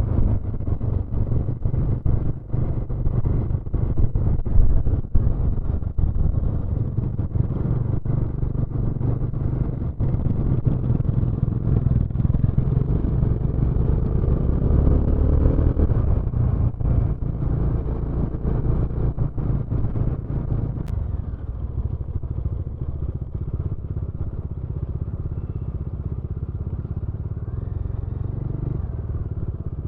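Motorcycle engine running while riding on the road, with many short knocks and rattles through the first half that give way to a steadier run.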